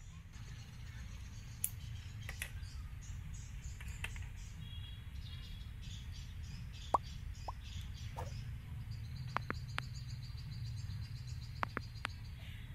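Birds chirping in quick high runs, joined about nine seconds in by a steady high trill, over a steady low rumble. A few sharp light clicks and taps fall in between, the loudest about seven seconds in.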